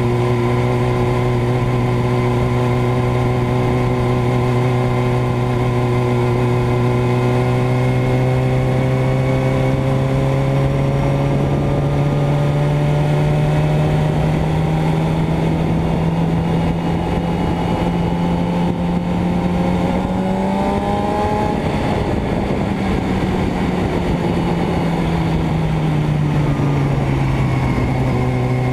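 Motorcycle engine running steadily under way, its pitch climbing slowly as it gains speed, rising quickly about two-thirds of the way through, then dropping back down near the end.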